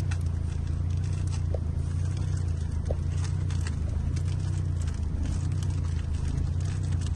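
Car engine idling steadily with a low, even hum, with scattered faint clicks over it.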